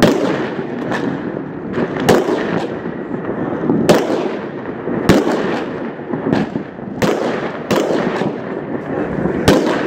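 Aerial fireworks bursting close by: about seven sharp bangs, one to two seconds apart, over a steady crackling din of more fireworks going off.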